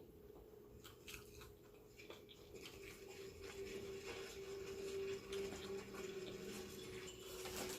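Faint chewing and mouth clicks from someone eating, under a steady low hum that grows louder in the second half.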